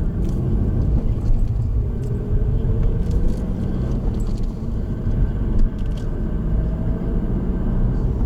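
Steady low road rumble and engine noise of a car being driven, heard from inside the cabin.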